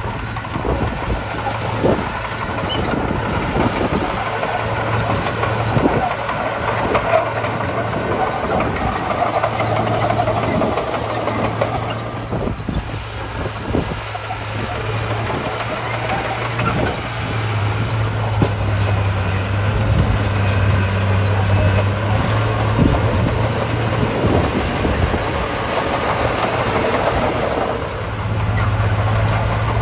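Komatsu D41P crawler bulldozer's diesel engine running steadily under load, with irregular clanks and knocks as it works through gravel.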